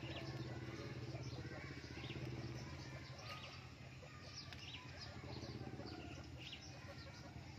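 Small birds chirping in short, scattered high calls over a low steady background hum.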